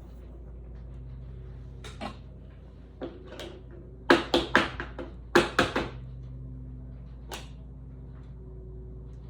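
Sharp plastic clicks and taps from handling trading cards and plastic card holders, with two quick flurries of clicks about four and five and a half seconds in, over a steady low electrical hum.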